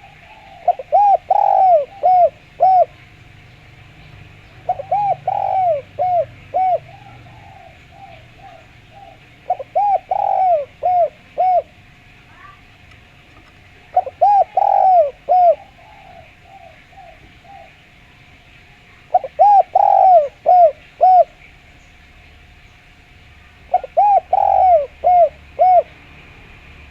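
Spotted dove (derkuku) cooing: six phrases of about five quick coos each, repeated every four to five seconds, over a faint steady tone.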